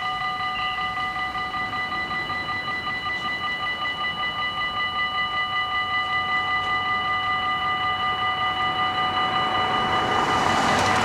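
Dutch level-crossing bells ringing in a fast, even tick. Near the end the rushing noise of an approaching Mat '64 electric train rises over them.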